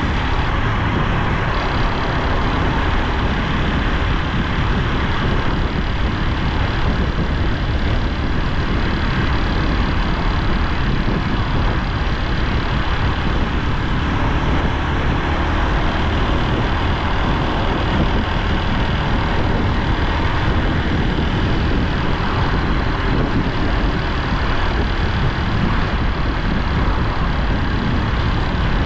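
Honda Super Cub C125's air-cooled single-cylinder engine and exhaust running steadily on the move, under a steady rush of wind noise.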